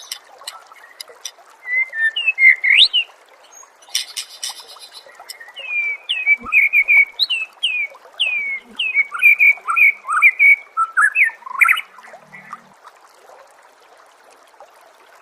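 A songbird singing: a harsh rattling burst about four seconds in, then a quick run of clear whistled notes, many sliding downward, repeated over several seconds. The song stops about three seconds before the end.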